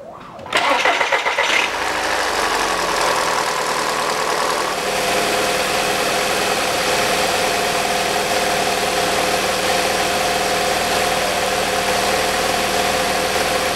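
The 2.0-litre FSI four-cylinder petrol engine of a VW Passat B6 is cranked by the starter for about a second, catches and idles. It runs unevenly at first, freshly refilled after an oil and filter change, until oil pressure builds, then settles into a steadier idle about five seconds in.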